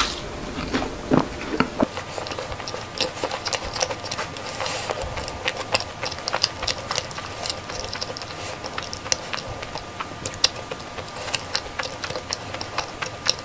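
Close-miked mouth sounds of a macaron being chewed with the mouth closed: a steady run of small, wet clicks and smacks, several a second.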